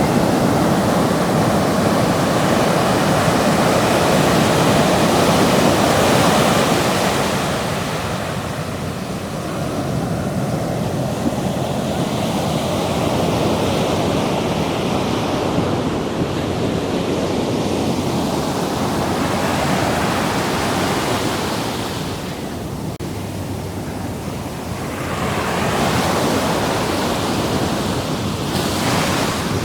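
Ocean waves washing up and back at the surf's edge, swelling and easing over several seconds, louder at the start and again near the end, with some wind on the microphone.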